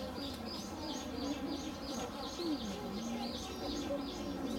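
Small birds chirping busily, several short high chirps a second, over people's voices murmuring in the background.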